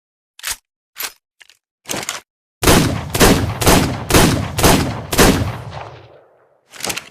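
Revolver sound effect: a few light mechanical clicks, then six gunshots about half a second apart with an echoing tail that dies away, then more clicks near the end.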